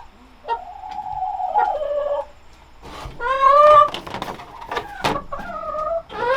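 Chickens calling: one long drawn-out call, then a louder arching call about three seconds in, and a few shorter calls near the end.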